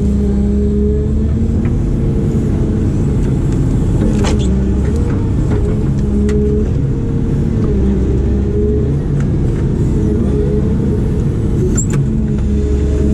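Diesel engine of a heavy digging machine running steadily, its pitch dipping and recovering slightly as it works. A few sharp clicks and cracks sound over it.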